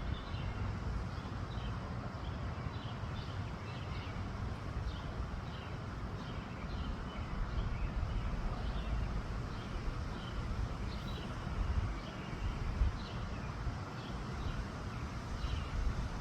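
Wind buffeting the microphone in gusts with a low rumble, while small birds chirp repeatedly in short high calls in the background.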